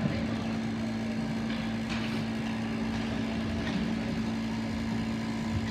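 Steady droning hum over the general din of an ice hockey arena, with a faint knock about two seconds in.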